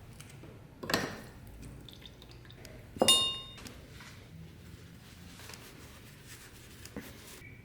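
Hard objects handled on a workbench: a knock about a second in, then a sharp clink that rings at several pitches, and a faint tap near the end.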